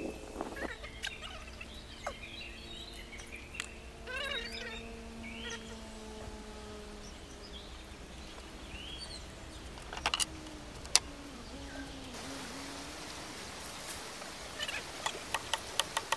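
Birds chirping and calling in short, scattered phrases, with a few sharp clicks about ten seconds in and a quick run of clicks near the end.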